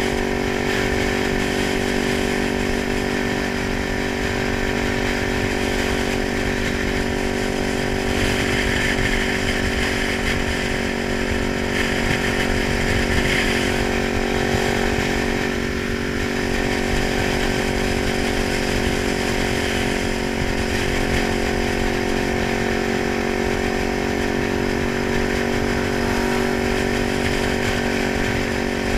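Kawasaki 900 motorcycle engine running at a steady, even pitch, without revving up or down.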